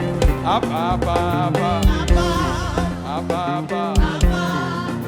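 Live gospel praise music: a band with bass notes and drums, with voices singing over it and several heavy drum hits.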